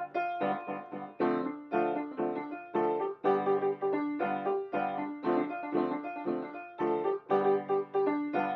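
Solo piano music: chords and notes struck in a steady rhythm, each fading before the next.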